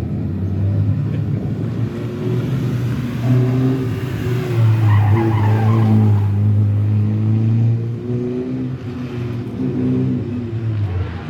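Rally car engine running hard, getting louder about three seconds in, with tyre squeal around the middle as the car slides sideways.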